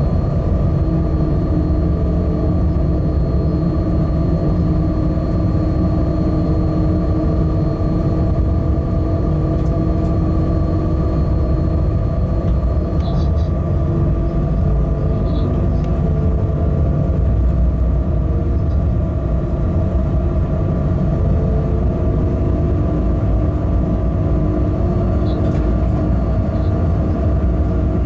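Freight locomotive cab noise while running along the line: a steady low rumble of the wheels on the rails with a steady hum and whine from the running gear, and a few faint short clicks.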